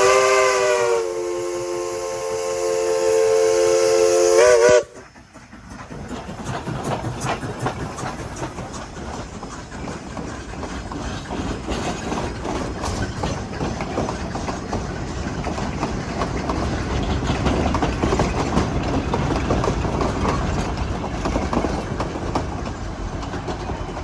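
Steam locomotive chime whistle blowing one long chord of several tones, wavering slightly in pitch about a second in and cutting off sharply about five seconds in. Then the train running, a steady rumble with rail clatter that swells slightly later on.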